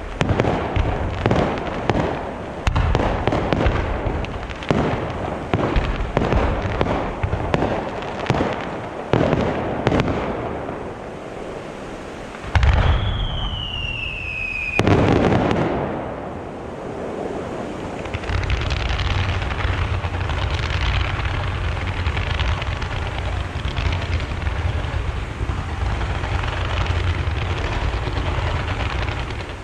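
Fireworks display: a rapid run of shell bursts for the first ten seconds or so, then a loud burst with a falling whistle, followed by a dense, steady crackle that runs on to the end.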